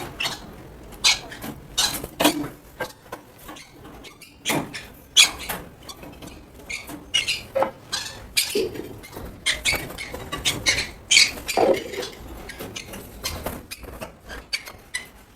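Small conures moving about in their wire cages: scattered scratches, clicks and light rattles, with a few short, sharp high calls.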